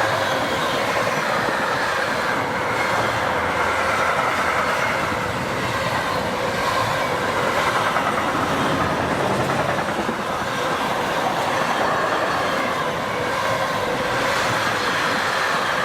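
Train rolling past, a steady, continuous noise of steel wheels running on the rails.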